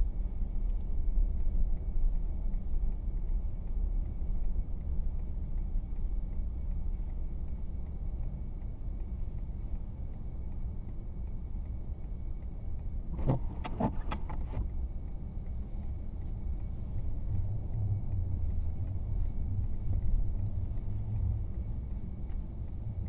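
Car driving, with a steady low road and engine rumble. A short cluster of several knocks comes a little past halfway.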